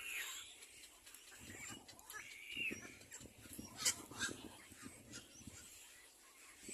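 Little black cormorants giving a few short, high calls that bend in pitch, with rustling and handling noise through the middle.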